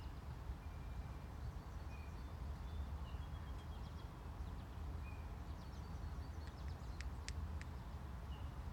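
Faint, short bird chirps over a steady low rumble, with a few sharp clicks about seven seconds in.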